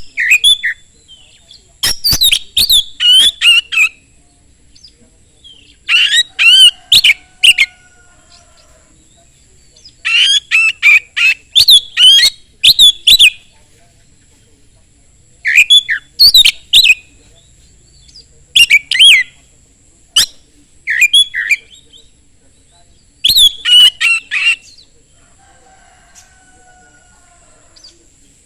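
Oriental magpie-robin (kacer) singing in loud bursts of fast, varied whistles and harsh notes, about seven bursts with pauses of one to three seconds between them. A faint steady high whine runs underneath.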